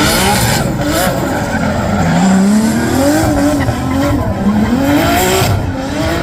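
Drift car engine revving hard, its pitch rising and falling again and again as the throttle is worked, over the noise of tyres squealing and sliding.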